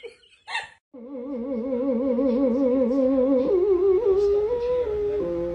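A dog howling: a long, wavering howl that starts about a second in and steps up in pitch partway through.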